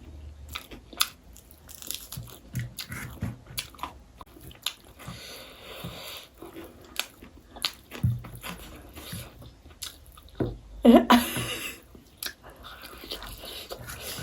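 Close-up eating of chicken biryani: chewing and biting, with many small wet clicks and smacks. About eleven seconds in comes a brief vocal sound, the loudest moment.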